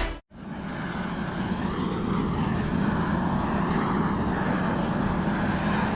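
Helicopter running steadily: a constant low drone with broad engine and rotor noise, starting after a brief gap and rising in level over the first second or so.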